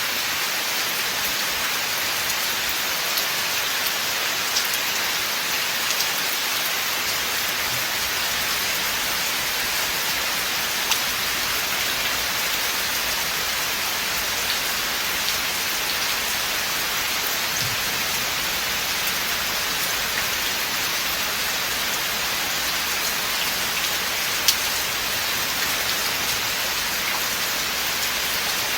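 Steady rain falling in a forest, an even hiss with scattered louder single drops ticking now and then.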